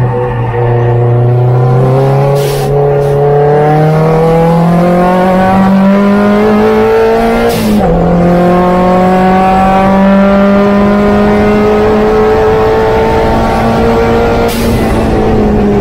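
Opel Speedster's engine heard onboard, pulling under acceleration: the revs climb steadily, drop sharply at an upshift about seven and a half seconds in with a short sharp hiss, then climb slowly again and ease off near the end.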